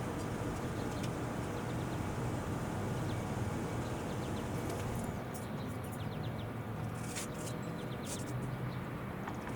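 Steady low outdoor rumble, like distant traffic, under faint small bird chirps. From about halfway through, a few sharp clicks.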